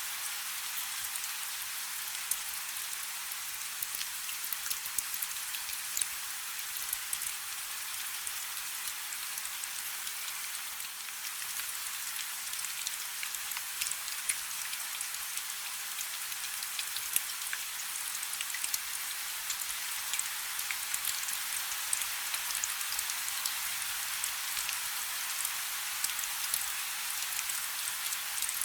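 Light rain falling steadily: an even hiss with many small, sharp drop ticks scattered through it.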